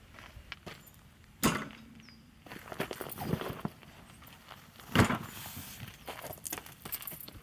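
Footsteps and scuffing with irregular knocks, including two sharper thumps, one about a second and a half in and one about five seconds in.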